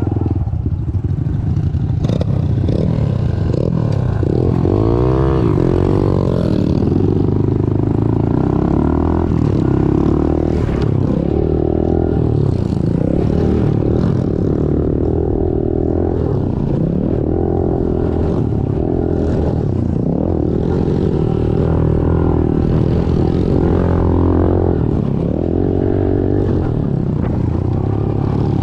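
Small four-stroke pit bike engine ridden hard, its revs rising and falling over and over as the throttle is opened and closed.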